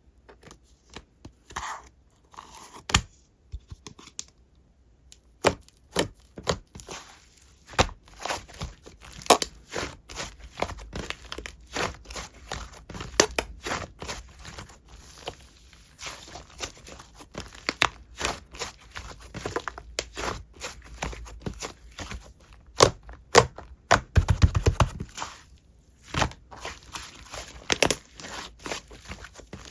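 Clay slime being squished and pressed by hand, giving irregular sticky clicks and crackling pops, sparse at first and then dense, with a short, fuller burst about three-quarters of the way through.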